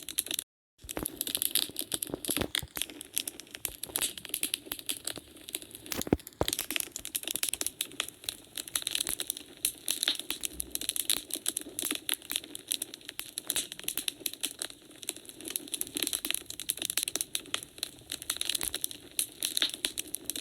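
Wood fire crackling in a fireplace: a dense run of small snaps and pops, with louder pops about two seconds and about six seconds in. The sound cuts out completely for about half a second near the start.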